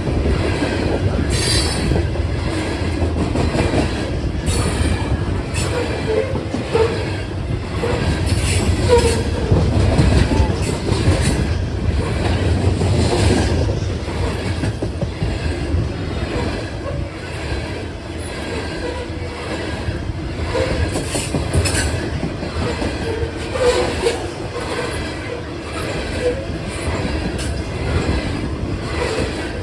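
Train rolling past with a steady rumble of wheels on rail. Short, high wheel squeals come now and then, a few near the start and again past the middle.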